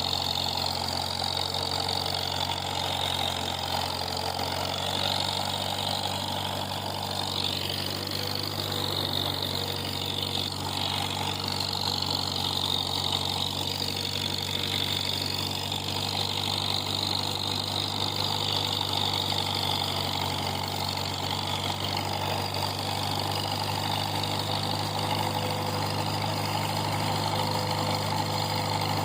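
Farmall M tractor's four-cylinder engine running at a steady speed.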